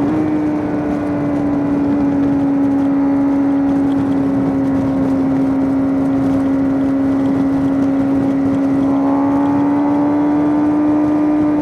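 Suzuki GSX-R600's inline-four engine pulling at a steady high rev while riding, its pitch holding almost level and rising slightly about nine seconds in.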